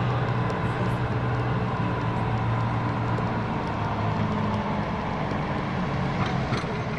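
A motor vehicle running: a steady engine drone with road noise.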